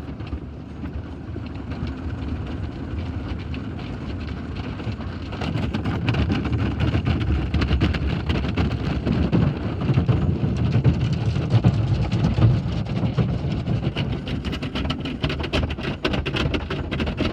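Automatic tunnel car wash heard from inside the car's cabin: water spray drumming on the body over a steady low rumble of the washing machinery. It gets louder about five seconds in and again around ten seconds.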